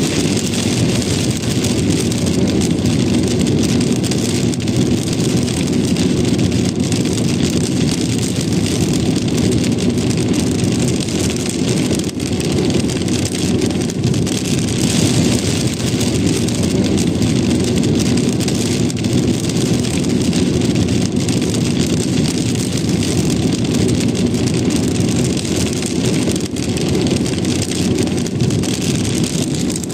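A car driving in rain: a steady low road-and-engine rumble with the patter of rain over it, even throughout.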